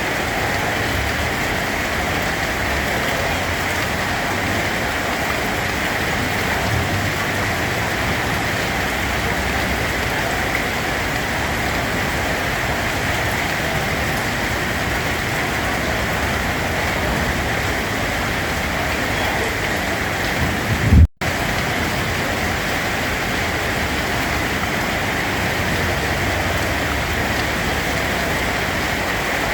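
Steady rain falling, an even hiss of drops. About two-thirds through, a brief low swell is followed by a split-second cut to silence, then the rain resumes unchanged.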